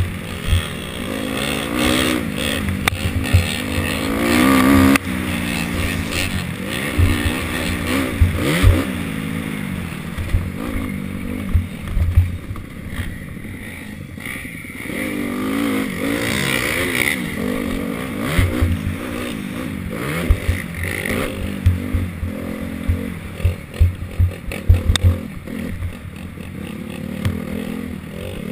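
Motocross dirt bike engines revving up and down as they ride the track, the pitch rising and falling again and again, softer for a few seconds in the middle. Wind gusts thump on the microphone throughout.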